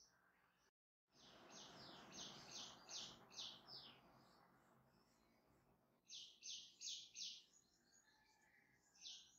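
A small bird chirping in quick runs of short, high notes: about five in a row a couple of seconds in, another run of four about six seconds in, and a single note near the end. A soft, faint noise sits under the first run.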